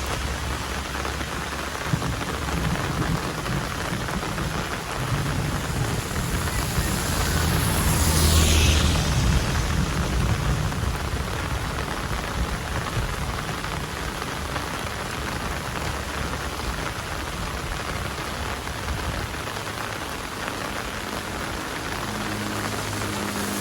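Heavy rain pouring down in a steady dense hiss, over a low rumble. About eight seconds in it swells louder, with a hiss that falls in pitch.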